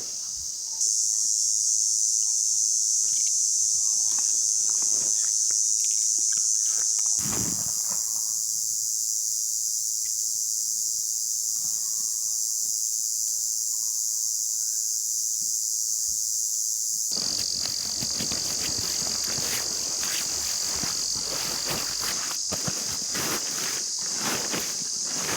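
Insects calling in a steady, high-pitched drone, changing slightly in pitch and strength a few times. From about two-thirds of the way in, a dense run of small crackling clicks sits beneath it.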